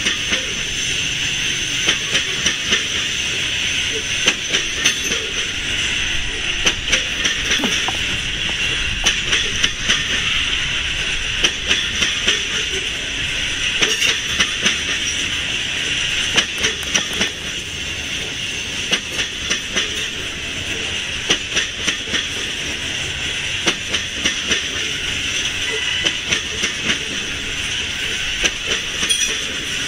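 Loaded coal hopper cars rolling past: a steady hiss of steel wheels on rail, broken by short clusters of clicks as the wheelsets pass over the track.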